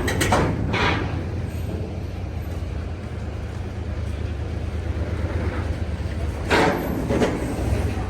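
Steady low drone of a large diesel engine on a vehicle ferry, with rough mechanical noise over it. There are brief louder clatters just after the start and again about two-thirds of the way through.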